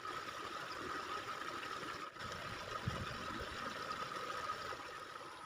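Steady rushing noise of a waterfall, with a thin steady tone running through it.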